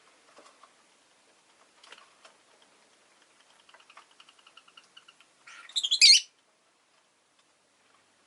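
Rosy-faced lovebird: a few faint clicks, then a run of soft, quick repeated chattering notes, ending with one loud, shrill chirp about six seconds in.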